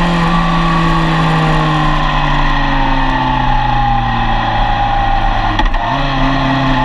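Yamaha FJR1300's inline-four engine running at speed, with wind rush. Its pitch falls slowly as the revs drop; about five and a half seconds in there is a brief dip and a click of a gear change, after which the note settles a little higher.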